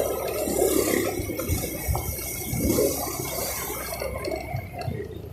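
Rushing wind and road noise from riding a motorbike, with a few low thumps from bumps in the road.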